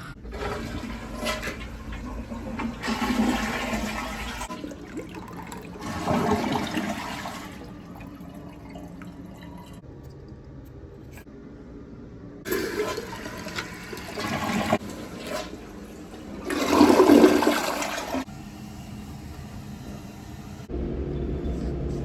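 Toilet flushing: water rushing in several surges, the loudest about three-quarters of the way in.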